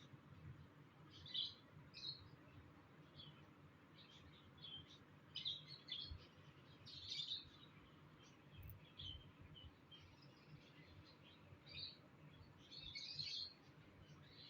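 Faint pet lovebird chirping: scattered short high chirps, with a louder burst of chirping near the end.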